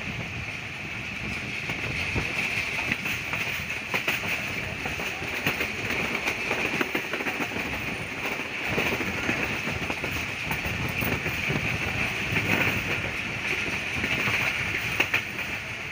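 Passenger train coaches running at speed: a steady rumble of wheels on rail with irregular clacks over the rail joints, heard from an open coach door beside the moving wheels.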